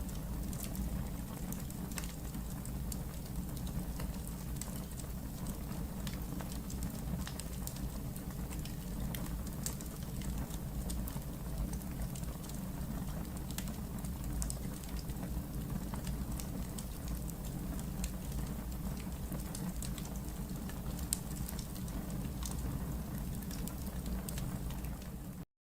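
Wood fire burning in a fireplace: irregular crackles and pops over a steady low rumble. It cuts off suddenly near the end.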